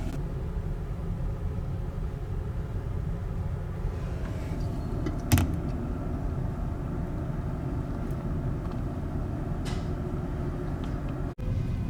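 Steady low rumble of a ferry under way, the drone of its engines and hull, with a single sharp knock about five seconds in.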